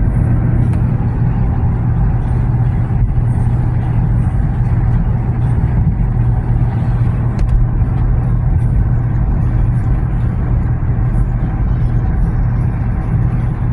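Steady road and engine noise heard inside a moving car's cabin, a constant low drone under a wash of tyre noise.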